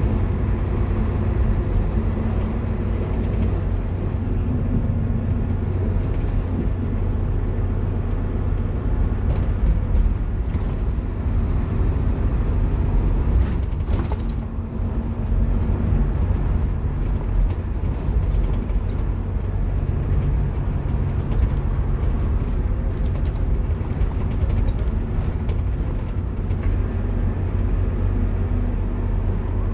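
Scania K230UB single-decker bus's diesel engine and driveline running under way, its drone shifting in pitch as it pulls through the gears. A single sharp knock or rattle sounds about halfway through.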